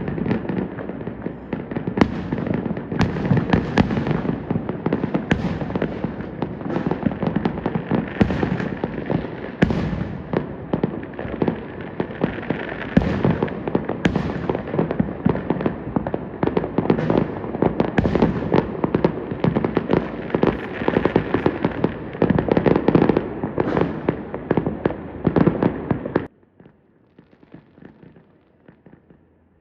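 Fireworks show: aerial shells and firecrackers going off in rapid succession, a dense run of bangs over continuous crackling. Near the end it cuts off suddenly, leaving only a faint background with scattered pops.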